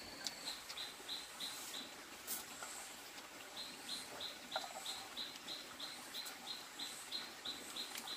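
A small bird chirping a short high note over and over, about three a second: a brief run near the start, then a longer steady run from about three and a half seconds in. A few light knocks now and then.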